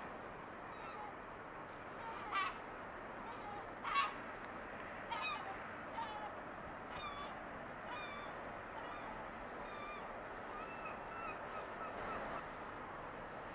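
Birds calling, a series of short separate calls with a quicker run of calls near the end, over a steady background noise.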